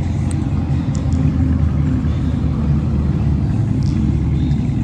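Dodge Challenger R/T's 5.7-litre HEMI V8 running steadily, with its mid muffler and resonators deleted, giving a loud, steady low exhaust rumble.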